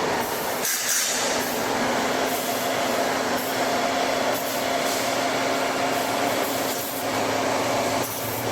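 Tire shredding machine of a TDF1800 tire-derived-fuel line running: a loud, steady mechanical noise with a steady low hum, and a brief high-pitched squeal about a second in.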